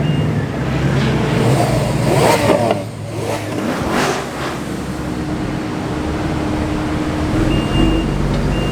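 Supercar engines revving and accelerating, with a rising swell of revs about two to four seconds in, then a steadier engine note.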